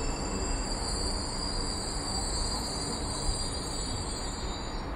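Marmaray electric commuter train pulling out of the station: a low rolling rumble under a high, steady whine, which cuts off suddenly near the end.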